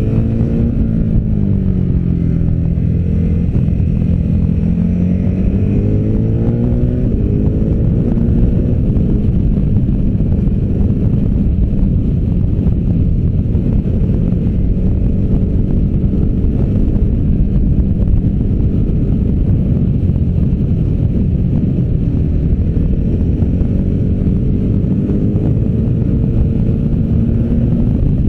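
V-twin adventure motorcycle engine under way at speed, its pitch dropping and then climbing again over the first several seconds, holding fairly steady, then rising once more near the end, with constant wind rumble on the microphone.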